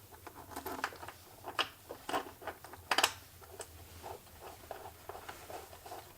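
Light clicks and taps of a mounting bolt with washer being started by hand and the plastic headlight housing being handled, with a sharper double click about three seconds in.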